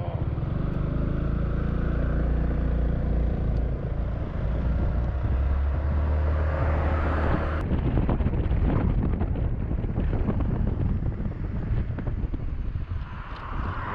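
Honda Forza 350 scooter's single-cylinder engine pulling away and running under way. From about halfway, rushing wind noise on the microphone builds up over the engine.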